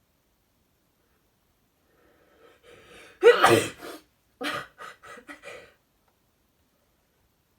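Boxer dog sneezing: a faint build-up, one loud sneeze about three seconds in, a second about a second later, then a quick run of smaller sneezes.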